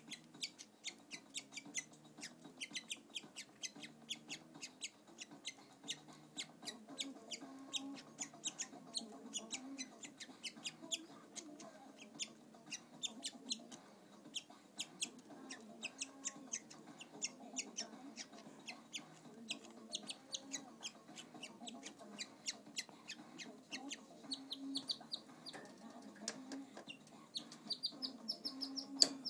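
Pet canary chirping: a rapid run of short, sharp call notes, several a second. Near the end come a few rising whistled notes.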